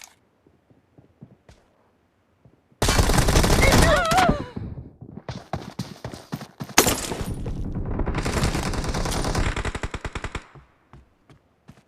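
Automatic gunfire sound effects in a shooter video game: a rapid burst of about two seconds starting about three seconds in, a few scattered shots, then a longer continuous burst from about seven to ten seconds in. A brief warbling tone rises through the first burst.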